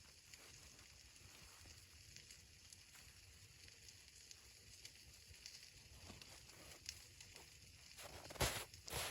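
Near silence: a faint steady hiss with a few soft clicks, then two short rustling noises near the end.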